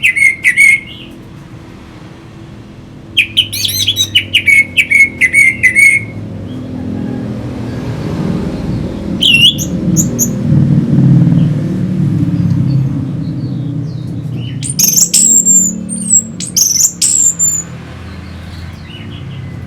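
Orange-headed thrush singing in separate bursts of rapid, varied whistled phrases, some of them very high, with pauses between them. A low rumble swells in the background through the middle.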